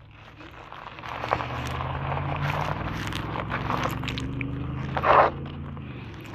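Philodo Jumbo dual-hub-motor fat-tire e-bike pulling away and riding: a low steady motor hum with tyre and wind noise, building over the first second or two. A short, sharper noise comes about five seconds in.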